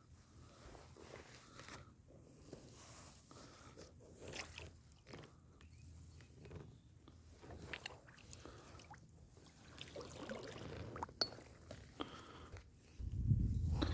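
Faint, irregular small clicks and ticks from a drifting kayak, with a louder low rumble coming in near the end.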